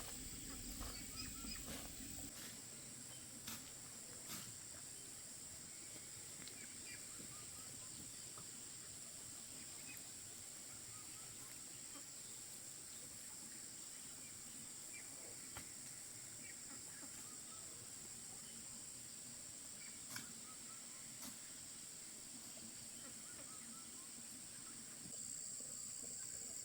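Steady high-pitched insect drone, with a few sharp clicks and faint short chirps.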